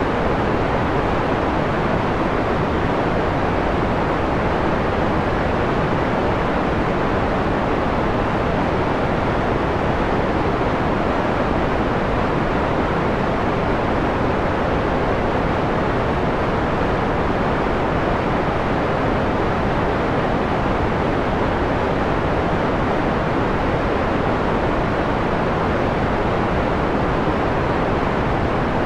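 Steady synthetic white noise, filtered to a mellow, darker hiss with the highest frequencies rolled off. It stays constant throughout, with no changes or other sounds.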